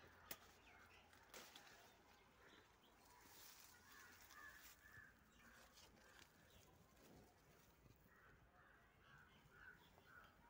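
Near silence with faint bird calls: runs of short repeated notes, one about four to five seconds in and another near the end. A couple of sharp clicks in the first second and a half.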